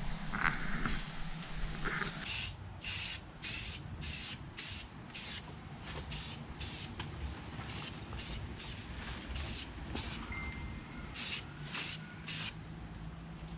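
Aerosol spray-paint can spraying engine covers in a rapid series of short hissing bursts, beginning about two seconds in.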